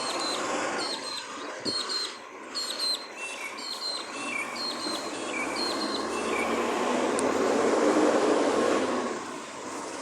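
Garbage truck running, its engine and machinery noise swelling to its loudest about eight seconds in and then dropping away. A run of repeated short high chirps sounds over it through the first two-thirds.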